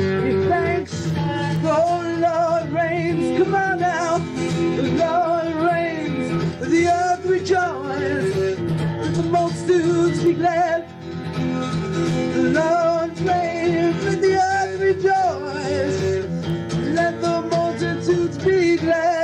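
Live worship band music led by guitar, with a wavering melody line over sustained chords.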